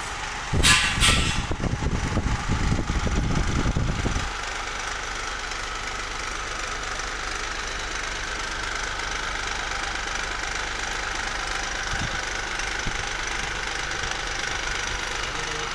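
Mahindra Quanto's three-cylinder turbodiesel engine, just refitted with its twin turbochargers, running. It is loud and fast-pulsing with a brief hiss about a second in, then drops abruptly about four seconds in to a steady idle.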